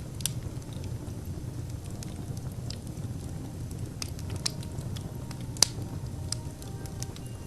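Wood fire burning in a fireplace: a steady low rumble of flames with irregular sharp crackles and pops, the loudest about five and a half seconds in.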